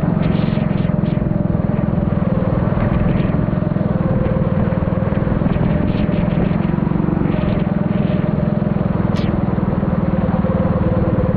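Four-stroke Honda rental kart engine running hard on track, heard onboard from the driver, its pitch holding nearly steady with small rises and falls.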